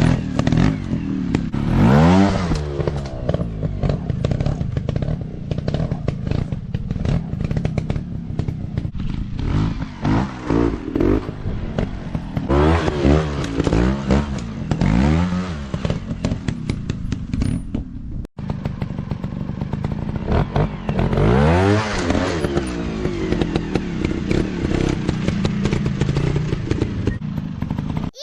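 Dirt bike engines revving, the pitch rising and falling again and again as the throttle is opened and closed. The sound cuts out for an instant about eighteen seconds in.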